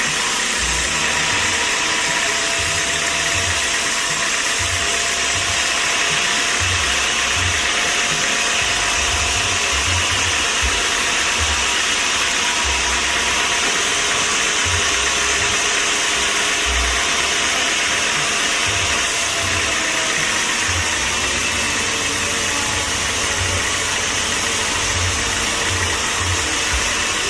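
Machinery running with a loud, steady noise that does not change through the stretch, with a faint steady hum and irregular low rumbles underneath.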